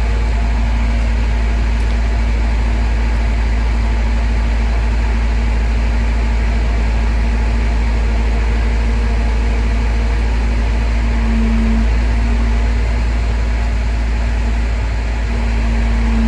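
Heavy crane-truck engine running steadily with a deep rumble and a steady hum, which rises slightly in pitch for a moment about two-thirds of the way in and again near the end.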